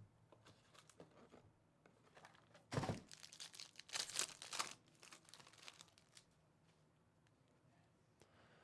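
Plastic foil wrapper of a trading-card pack crinkling and tearing as it is opened by hand: one short burst of crackling about three seconds in, then a longer crinkling about four seconds in.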